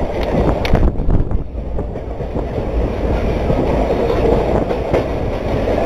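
Passenger train running along the track, heard from a coach doorway: a steady rumble of wheels on rails, with a few sharper clacks over rail joints in the first second and a half.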